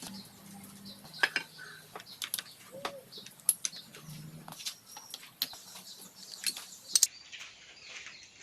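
Irregular sharp clicks and light taps, well over a dozen, the loudest about a second in, midway through and near the end, over a faint low hum that comes and goes.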